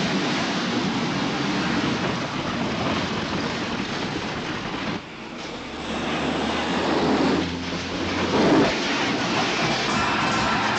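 Motor vehicle engine running with road noise, a steady noisy sound that drops away abruptly about five seconds in and builds again shortly after.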